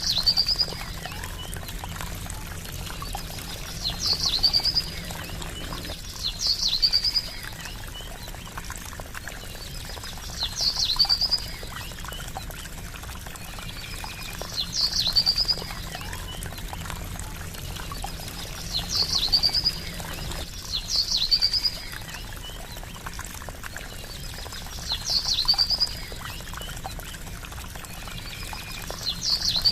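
Trickling water running steadily, with a small bird repeating a short, high call every two to four seconds. The calls are the loudest sound.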